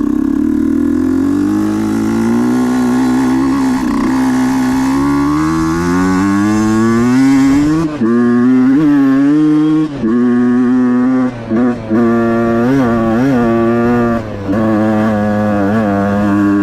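Husqvarna dirt bike engine pulling with its note climbing steadily for about eight seconds. After that the throttle is chopped on and off repeatedly, so the note rises and falls with short dips in level.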